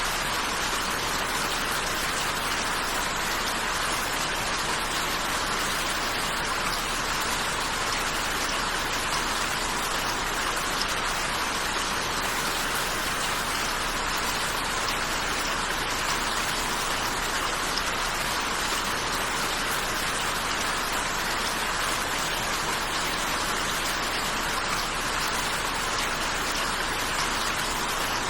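Steady, even rainfall: a continuous hiss of rain with no separate drops or thunder standing out.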